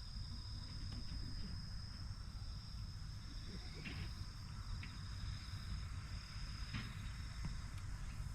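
Insects chirring outdoors in one steady, high, unbroken tone, over a low rumble, with a few faint taps.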